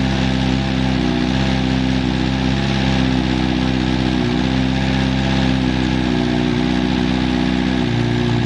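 Kawasaki ZX-14R inline-four engine idling steadily, a stable idle with no abnormal noise according to the seller.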